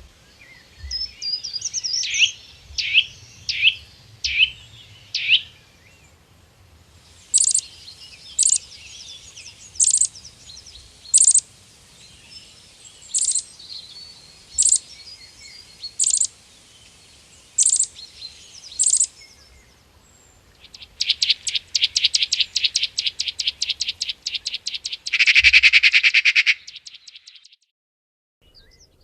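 Songbird calls: a short run of high whistled notes, then single sharp chirps repeated about every second and a half, then a fast trill that ends in a louder buzzy trill.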